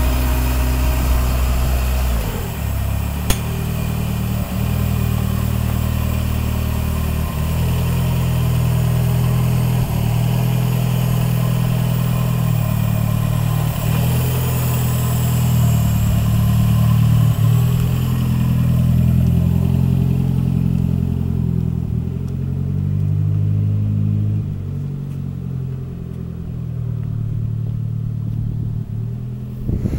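Turbocharged Suzuki Swift GTi four-cylinder engine running, its revs rising and falling in steps, then pulling away and fading into the distance over the last several seconds.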